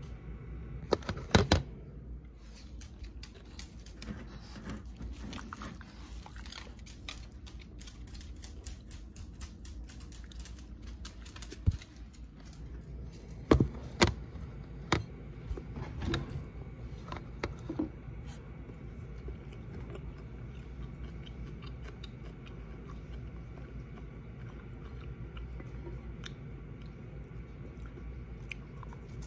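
A person chewing and crunching snacks close to the microphone. A few loud sharp knocks stand out about a second in and again around the middle, where the camera is handled.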